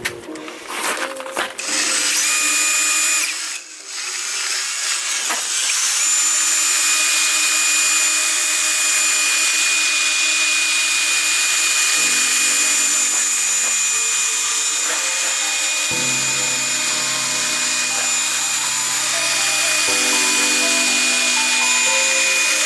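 Handheld power tool running steadily with a high whine, starting about two seconds in, with a brief dip shortly after, over background music.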